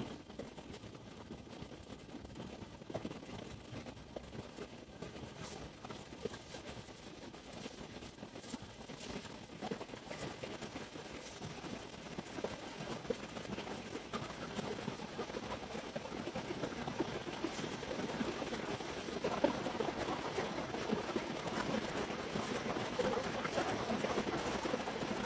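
Steady rainfall: a dense, even hiss made of many fine drop ticks, growing a little louder in the second half.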